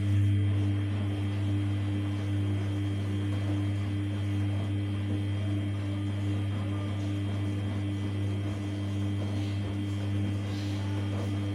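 Samsung P1271 washing machine's drain pump humming steadily, a low mains-frequency buzz with water noise behind it.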